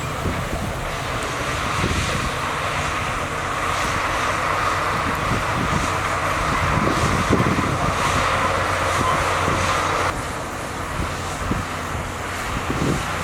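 Heavy diesel earthmoving machinery running under load, a steady engine rumble with a higher whine above it; the sound eases about ten seconds in.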